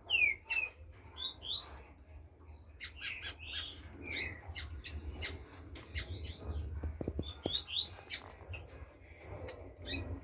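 Green-winged saltator (trinca-ferro) giving short whistled notes and quick downward-sliding chirps in irregular spurts, with sharp clicks among them and a steady low hum underneath.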